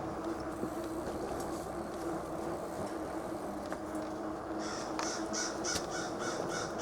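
Wind rushing over an unshielded lapel mic while riding an e-bike, a steady noise with a faint constant hum under it. From about four and a half seconds in, a quick series of short high ticks or chirps joins it, about three a second.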